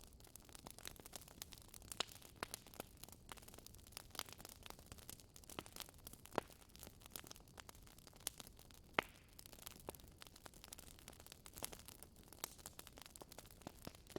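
Wood fire crackling: irregular sharp pops and snaps, a few of them louder, over a faint soft hiss.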